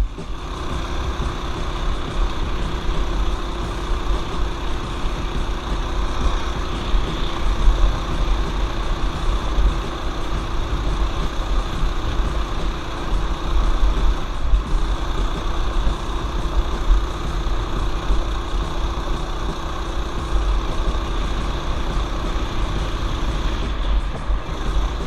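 Mini bike's small single-cylinder engine running steadily while riding the trail, with a strong low rumble underneath. The engine note dips briefly about halfway through.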